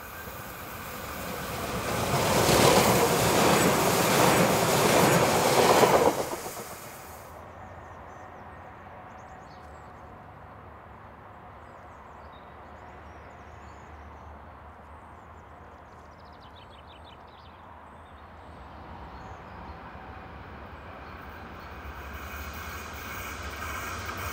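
Electric multiple unit passing close by at speed: a loud rush of wheels on rail that builds for a couple of seconds, holds for about four, then cuts off abruptly. A quieter stretch with faint high chirps follows, and near the end the sound swells again as an electric locomotive approaches.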